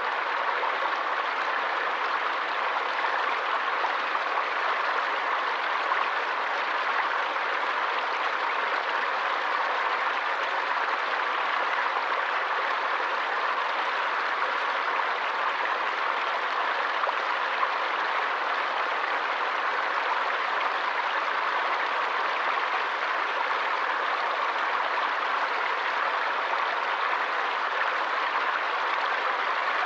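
Forest stream water flowing, a steady, even rush with no pauses or changes.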